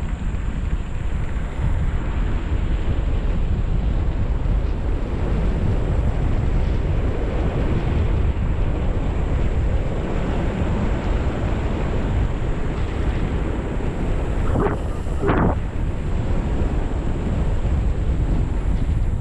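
Heavy wind buffeting the microphone while riding a bicycle, a steady rushing noise. Two short sharp sounds stand out about three quarters of the way through.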